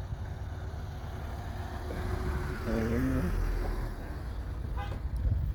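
A car passing at low speed, its noise swelling around the middle, over a steady low rumble. A brief voice sounds about three seconds in.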